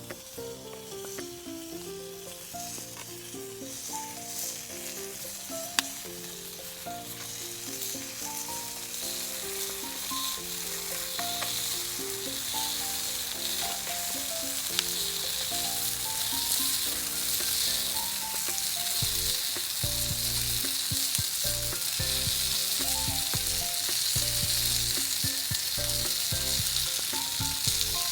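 Meat sizzling on a grill over a campfire, the sizzle growing louder, with a couple of sharp pops from the fat. Background music plays over it.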